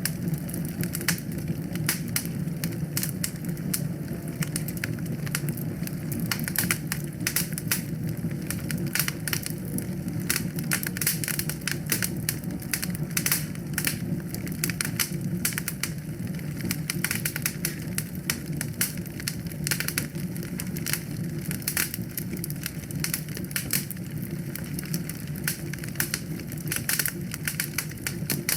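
Wood fire crackling steadily: many sharp, irregular pops and snaps over a low, even rumble of burning.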